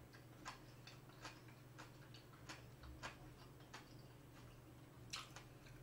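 Faint close-miked chewing of a soft mouthful with the mouth closed: small wet mouth clicks at an uneven pace of about one to two a second, over a low steady hum.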